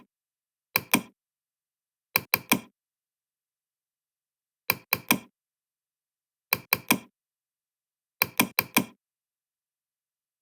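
Sharp knocks in quick groups of two to four, five groups about two seconds apart, with dead silence between them.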